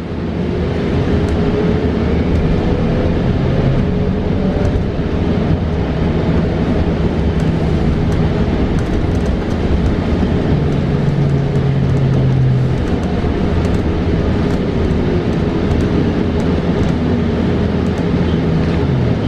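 Cabin of a 2022 New Flyer XE40 battery-electric bus under way: steady road and tyre noise with light rattles. The electric drive's whine glides up and down in pitch as the bus speeds up and slows.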